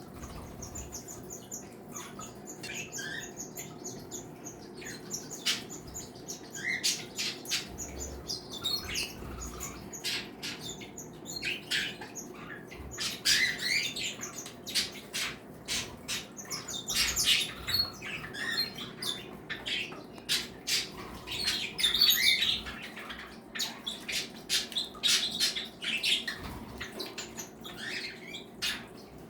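A mixed flock of cage birds (budgies, cockatiels, Bourke's parakeets, canaries and java sparrows) chirping, whistling and squawking over one another in many short overlapping calls, busiest in the middle and latter part. A steady low hum runs underneath.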